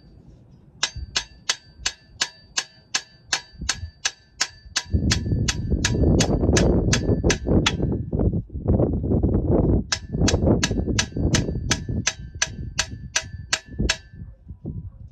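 A metal ratchet mechanism clicking evenly about five times a second, each click with a slight metallic ring, in two runs with a break around eight seconds in. Louder rustling and handling noise sits under the middle part.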